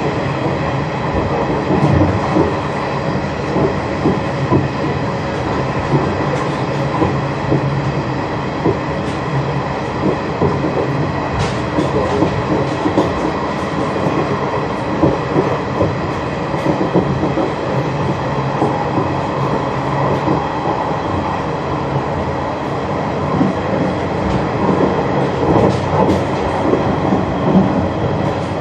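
Train running along the track, heard from inside the rear cab: a continuous rumble of wheels on rail with a faint steady hum and scattered short knocks from the rail joints.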